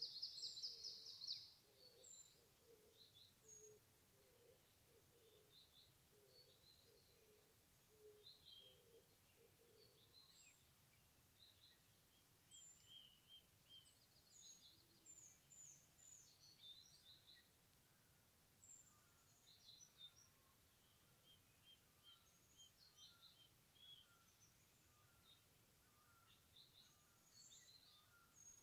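Faint forest birdsong: several small birds chirping and whistling in short high calls throughout, with a louder trill in the first second or so. A lower note repeats about twice a second for the first ten seconds.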